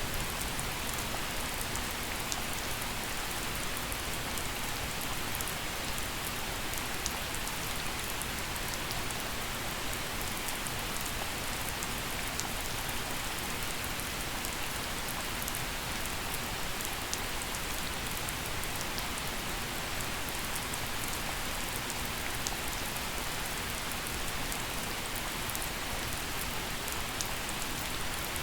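Steady gentle rain falling and pattering on surfaces, an even hiss with fine scattered drop ticks.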